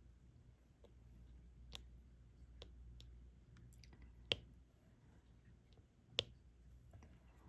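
Sparse light clicks and taps of a diamond-painting pen setting resin drills onto the canvas, with two sharper taps about four and six seconds in.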